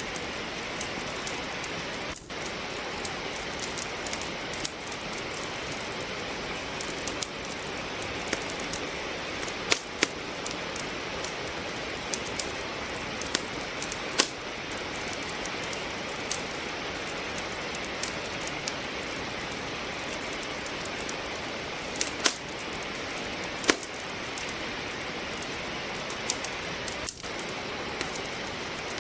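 Steady rain hiss with a wood fire crackling over it: irregular sharp pops and snaps of burning logs, a few louder ones standing out.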